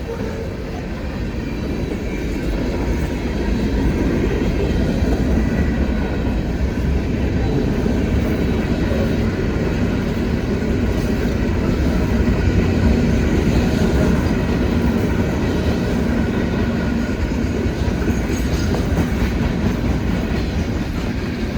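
Freight cars of a long CSX mixed freight train rolling past, a steady loud rumble of wheels on rail.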